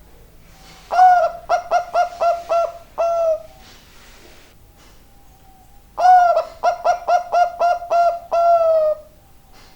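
Bangkok-type zebra dove (perkutut) cooing, two full song phrases about five seconds apart. Each phrase opens with a long note, runs into a quick series of short notes and ends on a drawn-out falling note.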